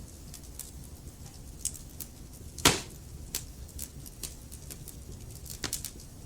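Wood logs burning in a fireplace: a steady low rumble of flames with frequent small crackles, one loud pop a little before halfway, and a quick cluster of snaps near the end.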